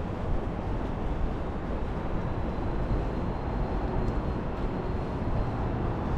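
Steady street ambience in rain and strong wind: a low rumble of wind buffeting the microphone, mixed with traffic noise.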